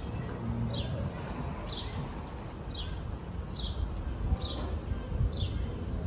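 A bird repeating one short, high, downward-sliding chirp about once a second, over a steady low rumble of street noise.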